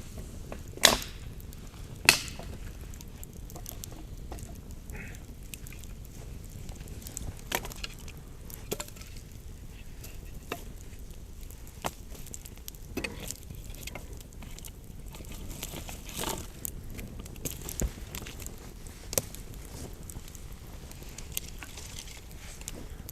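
Sharp wooden cracks and knocks at irregular intervals, with two loud ones in the first couple of seconds, over a steady low rumble: firewood being handled or cracking at a campfire.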